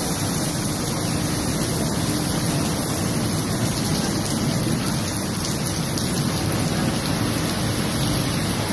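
Steady hiss of heavy rain and rushing floodwater, even and unchanging throughout.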